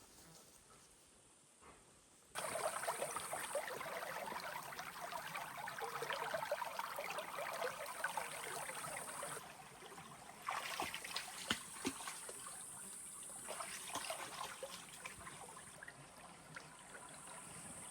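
Water trickling and splashing with many small crackling clicks. It starts abruptly about two seconds in, eases near the middle, picks up again, then settles lower.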